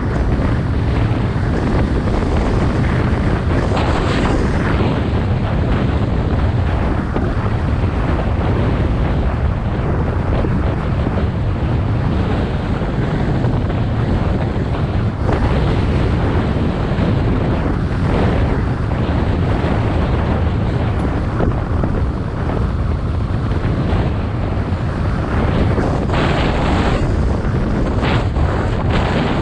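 Heavy wind buffeting the microphone on a moving mountain bike, with a steady low rumble and many small knocks and rattles from the bike running over rough ground.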